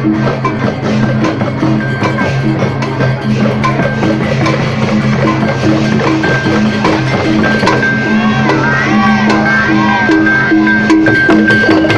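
Balinese processional gamelan (baleganjur) playing: gongs ring sustained low tones in a quick steady pulse under dense clashing cymbals and drums.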